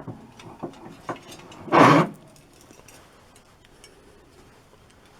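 A walnut workpiece being clamped in a bench vise: a few small metal clicks and knocks, then one short, louder scrape about two seconds in.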